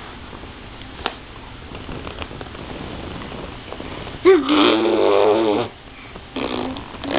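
A baby babbling: one long, wavering voiced note about four seconds in, lasting about a second and a half, then two shorter ones near the end. Before that, soft rustling and a single click.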